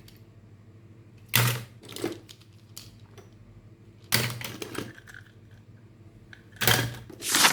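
Hard plastic toys being handled in a tub: a few sharp clacks and rattles at uneven intervals.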